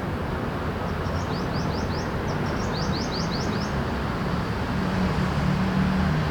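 Steady hum of city traffic, with a bird calling a fast run of short, high chirping notes in two bursts from about a second in until nearly four seconds in.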